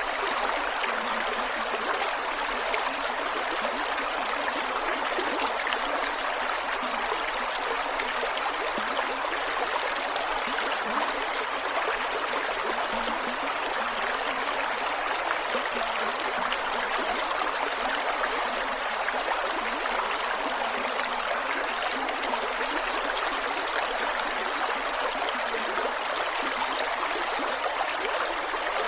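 Creek water flowing steadily over rocks, with a constant rushing and fine gurgling and trickling.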